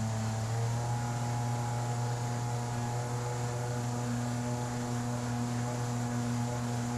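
Outboard jet motor of an inflatable jet boat running steadily under way. Its pitch steps up a little about a second in as the boat gathers speed.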